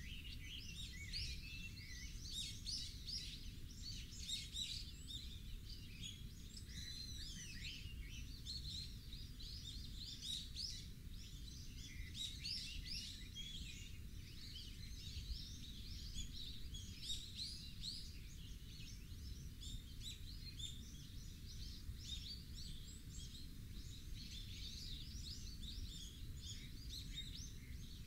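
Many birds chirping and calling continuously in a dense chorus of short high chirps, over a low steady rumble.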